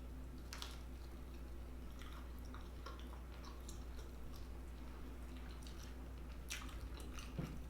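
Close-miked chewing of fried chicken: scattered crunches and wet mouth clicks at irregular moments, the strongest about two-thirds of the way through, over a steady low hum.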